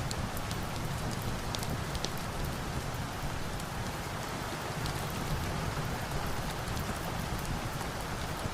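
Steady rain falling, an even hiss, with scattered sharp ticks over it.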